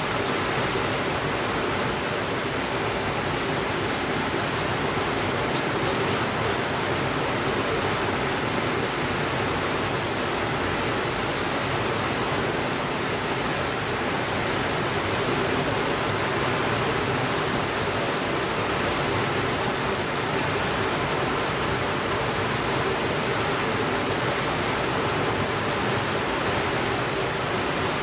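Steady rainfall, a dense, even hiss with no thunder.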